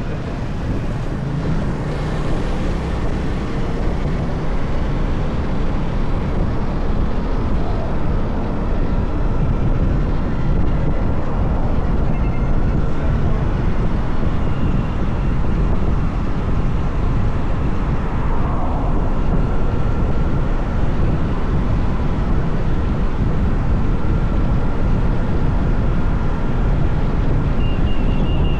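Motorcycle riding at speed: a steady rush of wind over the microphone mixed with engine and road noise, growing a little louder over the first few seconds and then holding steady.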